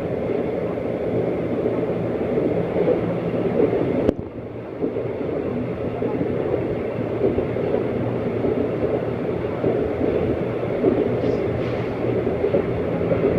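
Seoul subway line 2 train running, a steady rumble of the moving car heard from aboard. A single sharp click comes about four seconds in.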